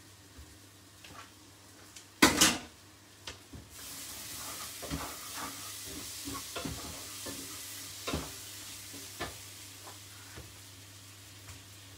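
A loud clatter about two seconds in, then spice paste sizzling in a pot, stirred with a wooden spatula that knocks and scrapes against the pot several times.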